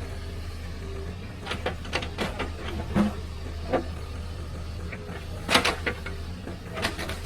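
Excavator engine running steadily, with a series of sharp irregular knocks and clanks as it works large stones; the loudest knocks come about three seconds in and again about five and a half seconds in.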